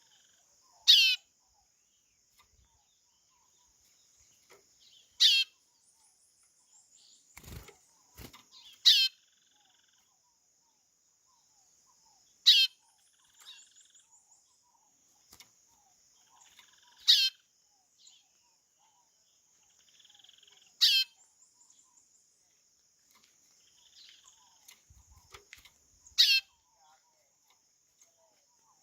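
A chorão (white-bellied seedeater) giving its call, a short whistle that falls steeply in pitch, seven times about every four seconds. A steady high insect hum runs underneath, and two sharp knocks come about a third of the way in.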